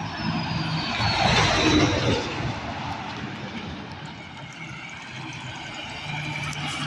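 Road traffic passing: a vehicle goes by, loudest about one to two seconds in, with a high whine falling in pitch as it passes, then steady engine and tyre noise from traffic.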